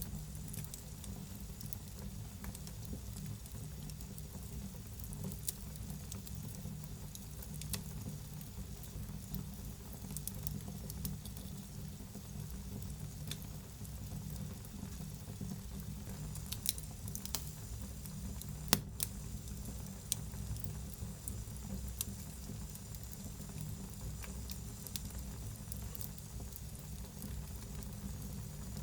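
Wood fire in a fireplace crackling and hissing: a steady low rumble and hiss with scattered sharp pops all through, the loudest about two thirds of the way in.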